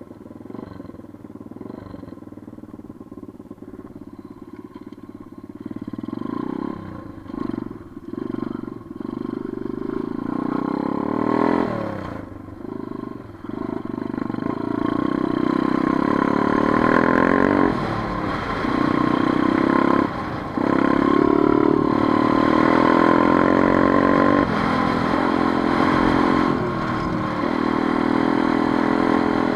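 Motorcycle engine running low and quiet at first, then revved in several short blips, then pulling harder and louder, with brief drops in sound partway through as the rider shifts gears.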